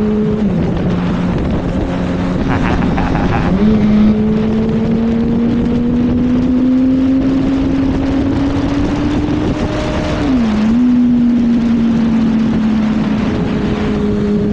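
Yamaha R1's inline-four engine running under way with wind rush. The revs drop about half a second in, then climb steadily from about three and a half seconds. Near ten seconds they dip briefly and pick up again from a lower pitch, a gear change.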